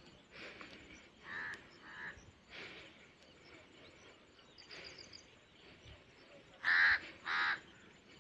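Harsh, crow-like bird calls, repeated several times at uneven intervals, with the loudest two close together near the end.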